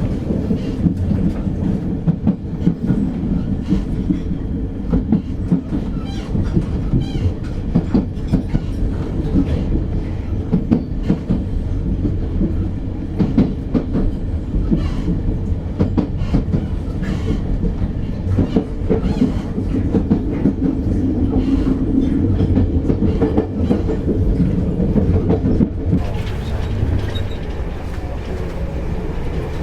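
The Enterprise passenger train running along the line: a steady low rumble with frequent clicks and rattles of the wheels on the track. Near the end a hiss grows brighter.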